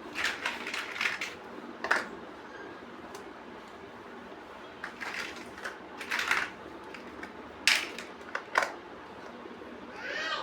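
Plastic building bricks being handled and pressed together: irregular clusters of small clicks and rattles, with a few sharp single snaps, and a short squeaky scrape of plastic near the end.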